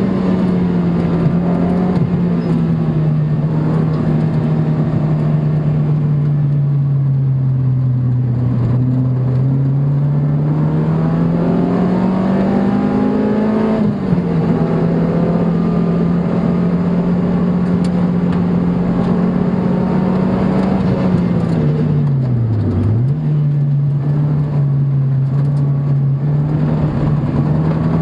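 A car engine heard from onboard while lapping a circuit, running steadily under load. Its note sinks slowly, then climbs and drops suddenly at a gear change about halfway through. Near the end it dips sharply and comes straight back.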